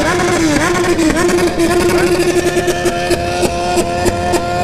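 A remapped sport motorcycle engine revved up and held at a steady high pitch on its rev limiter, with rapid, evenly spaced crackles as the limiter cuts the ignition, several times a second.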